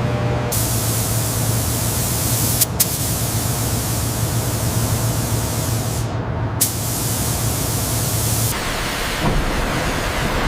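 Loud, steady hissing spray, like a high-pressure jet, over a low machine hum. It starts about half a second in, breaks off briefly twice, and changes character near the end when the hum stops.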